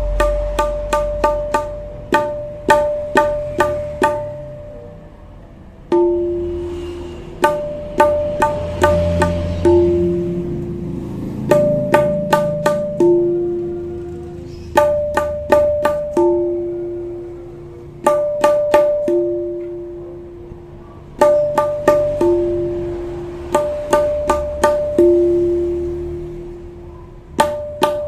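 Rhythmic percussion with a tabla-like sound: runs of sharp clicks over ringing drum notes that alternate between a higher and a lower pitch, in a pattern that repeats every few seconds.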